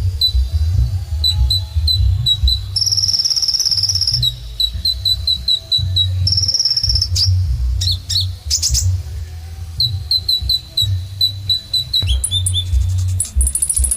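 Kolibri ninja (a sunbird) singing: a run of short, high chip notes several a second, broken by a sustained buzzy trill about three seconds in and another about six seconds in, with a higher trill near the end. A steady low rumble sits underneath.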